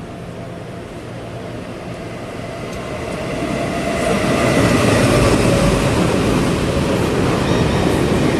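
Local electric multiple-unit commuter train running, heard from inside the carriage: wheel and rail rumble that swells over a couple of seconds, then stays loud and steady.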